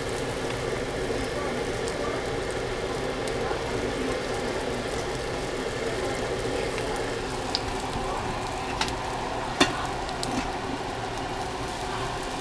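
Fried dumplings sizzling steadily in oil in a stainless steel skillet. A few sharp clicks of a metal fork against the pan come in the second half, the loudest about ten seconds in.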